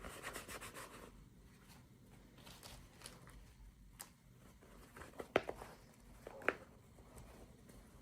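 Hands unboxing a toy: packaging rustling for about the first second, then scattered small scratches and ticks, with two sharper clicks about a second apart.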